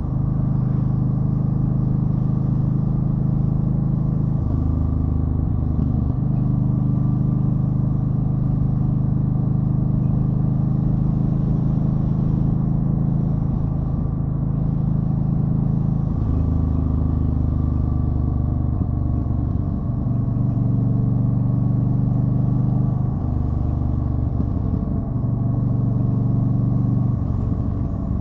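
Yamaha Stryker's V-twin engine running under way. Its pitch steps up and down several times as the throttle and speed change.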